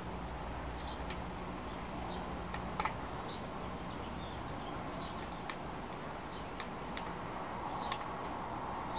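Faint, irregular clicks and ticks of an Allen key turning screws into a Tippmann A-5 paintball marker, over a steady low hum.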